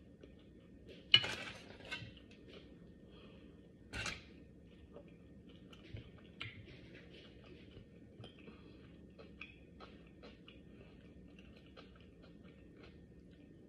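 Close-miked chewing of food, a steady run of small wet mouth clicks. Cutlery clatters against a dish, once sharply about a second in and again near four seconds.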